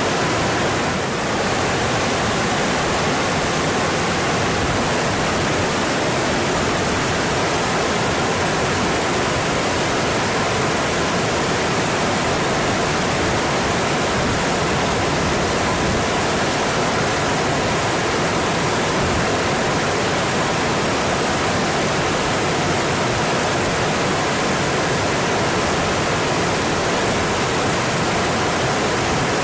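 A mountain stream rushing over its rocky bed in a steady, even flow of water.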